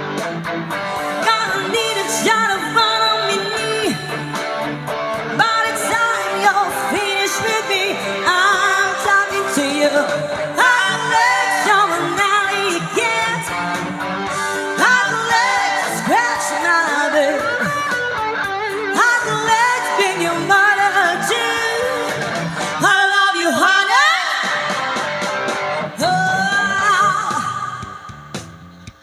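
Rock band playing, with singing over strummed guitar; the music drops away near the end.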